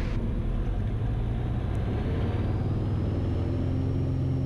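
Cessna 172RG's single piston engine and propeller running at full takeoff power as the plane rolls for a touch-and-go, a steady cabin drone whose note firms up and steadies about three seconds in.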